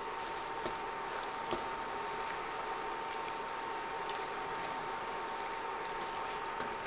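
Rice frying with a steady sizzle in a cast-iron pot as it is stirred with a wooden spoon, with a few soft scrapes and a faint steady whine underneath.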